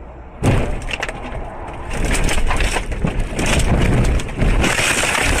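Car crash: a sudden loud impact about half a second in, followed by continued crunching, scraping and clattering of metal and debris.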